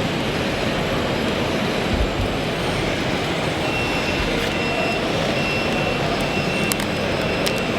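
A reversing beeper, of the kind fitted to RC trucks and construction models, starts about halfway in. It gives an even high beep, roughly one a second. Under it there is a steady dense noise of running machinery.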